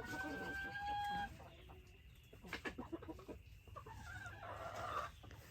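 Chickens calling in a coop: one long held note in the first second or so, then scattered clucks and a rougher squawk near the end.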